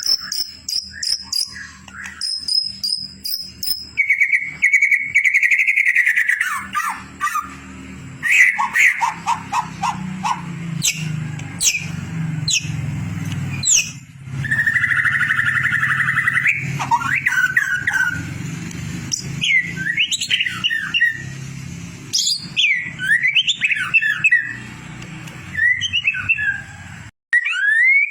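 Recorded songbird song of the kind played as 'masteran' training audio for white-rumped shamas: a fast, varied run of clear whistles, rapid trills and chattering notes. A low steady hum runs beneath it until near the end.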